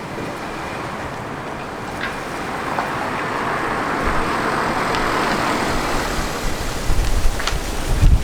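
A road vehicle passing, its tyre and engine noise rising to a peak about halfway through and then easing off, with wind buffeting the microphone near the end.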